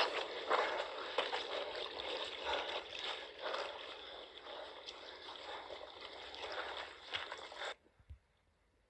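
Rainwater running down a flooded rocky mountain path, with splashing. It fades gradually, then cuts off suddenly near the end.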